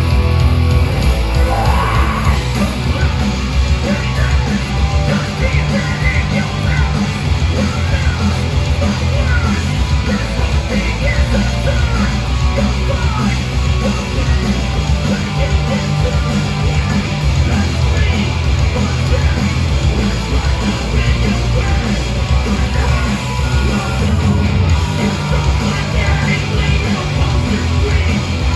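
Punk band playing live: loud, driving electric guitars and drums with shouted vocals.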